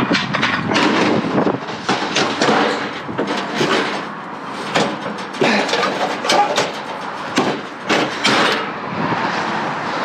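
Irregular knocking, clattering and scraping of junk being shifted around in a dumpster, with many sharp hits in quick succession that die down about eight and a half seconds in.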